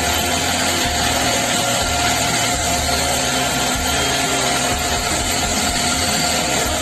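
A power tool running steadily without a break, with a constant tone over a dense noise.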